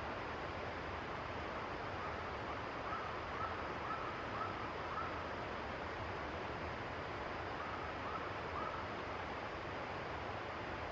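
Steady rushing of river water. Over it, a bird gives a run of short, faint chirps, about two a second, then a second shorter run a few seconds later.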